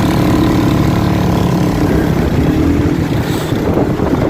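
Vehicle engine running at a steady pace while on the move, a steady hum over road and wind rumble.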